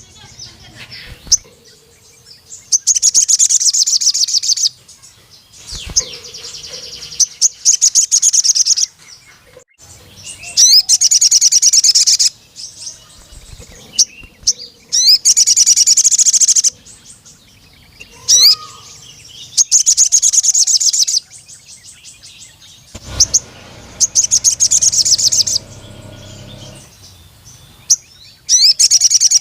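A sogon (crimson sunbird) male singing: bursts of rapid, high-pitched trilling about two seconds long, repeated every few seconds, with short sharp chirps between them.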